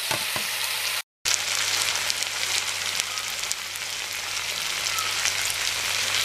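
Freshly added pieces of roasted eggplant and tomato sizzling and crackling in hot oil in a frying pan, with a few light knocks at the start as they go in. The sound cuts out for a moment about a second in.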